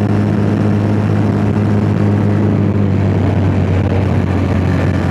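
Yamaha MT-07's 689 cc parallel-twin engine running at a steady, even speed while the motorcycle is under way, with wind noise on the microphone.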